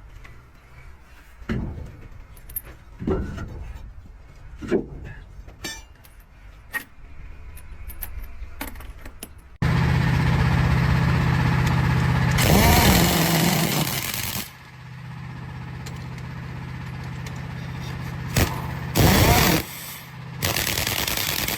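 Truck tyre-repair work noise: scattered knocks and clicks, then, after an abrupt cut, a machine running steadily with a low hum. Two loud noisy bursts rise over it, one lasting about two seconds and a shorter one near the end.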